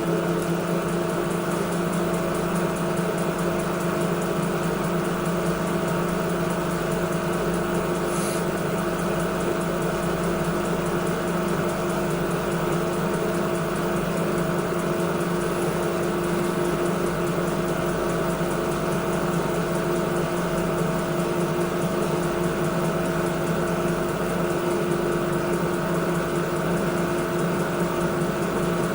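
Washing machine running steadily, its motor giving a continuous hum with several held tones over a wash of noise. A faint tick sounds about eight seconds in.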